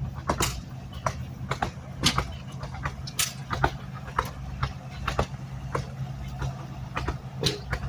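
An engine running with a steady low hum, with short sharp clicks or pops about twice a second.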